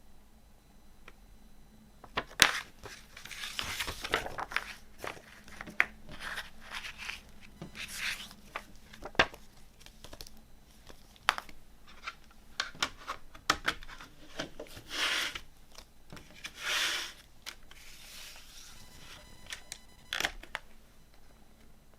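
Hands handling a CD and its packaging: sharp plastic clicks and knocks mixed with paper rustling and crinkling, with two longer swishes of about a second each in the second half.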